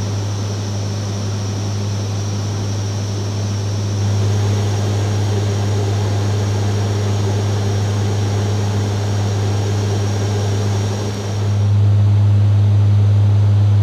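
AH-64 Apache helicopter in flight: a loud, steady drone of rotors and turboshaft engines with a thin high whine over it. About eleven seconds in, the whine drops out and the drone gets louder.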